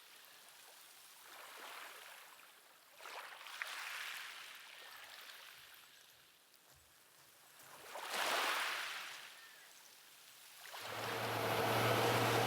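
Small waves washing onto a shore, surging and fading three times. Near the end a steady mechanical hum with a low drone cuts in and takes over.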